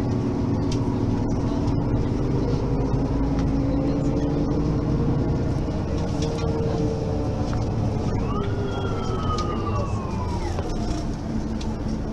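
Mercedes-Benz facelift city bus under way, its engine and drivetrain giving a steady drone with slowly shifting pitch. About eight seconds in, a high whine rises sharply, then sinks slowly for a couple of seconds before falling away.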